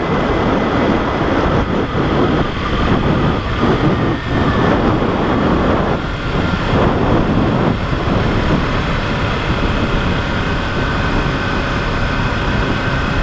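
Kawasaki Ninja 300's parallel-twin engine running as the motorcycle is ridden along the road, under a dense rush of riding noise.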